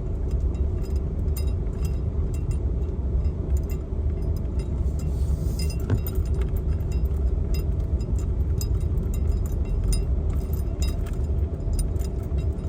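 Car cabin sound while driving slowly: a steady low rumble of engine and tyres, with frequent small rattles and clinks throughout.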